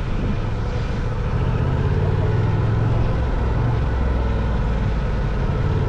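Adventure motorcycle running while being ridden: a steady low engine rumble under wind and tyre noise. The engine note drops lower about three and a half seconds in.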